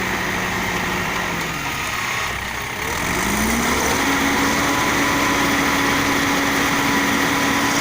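Ajex Fiori concrete mixer's engine running. Its pitch sags for a couple of seconds about a second in, then climbs back and holds steady a little higher.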